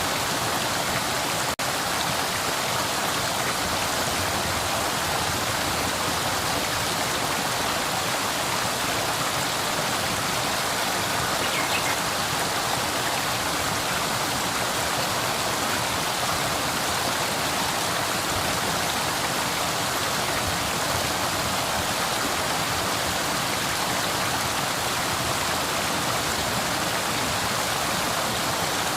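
Flowing river water, a steady rushing hiss with no change in level.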